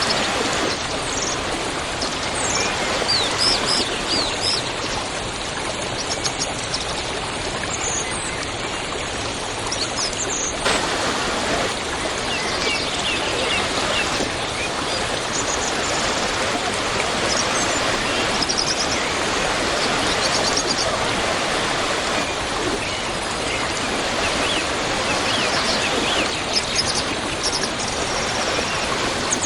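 Waterfall water rushing in a steady, even roar, with small birds chirping now and then over it.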